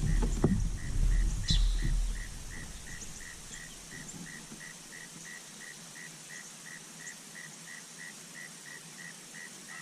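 An insect chirps in a steady, high-pitched rhythm, about three times a second. Low bumps and rumble come in the first two seconds, then fade.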